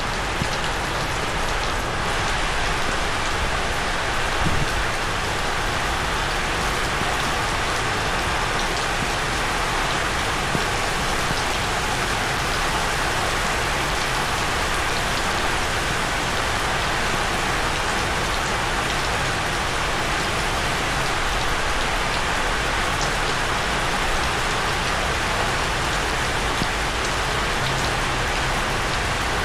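Steady rain falling on a rooftop, a dense even hiss with scattered individual drop ticks.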